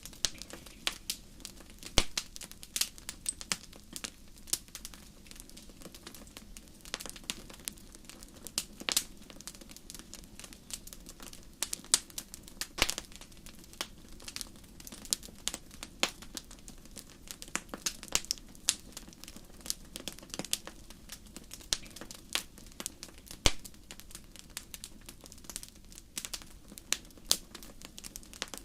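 Wood fire burning in a fireplace, crackling steadily with irregular sharp pops, a few of them much louder than the rest, over a faint low rush of flame.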